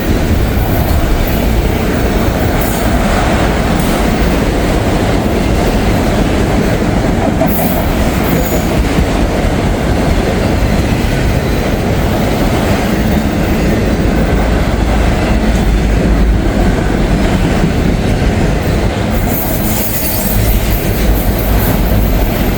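CSX freight train rolling past close by, its steel wheels clattering over the rails with some wheel squeal as it takes the siding. The noise is loud and continuous.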